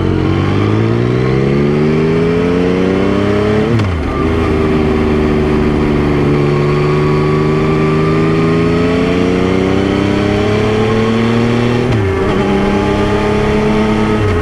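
Yamaha Tracer 9's three-cylinder engine pulling under acceleration. The revs rise quickly, fall sharply with a gear change about four seconds in, climb slowly for several seconds, and fall again with another gear change near the end.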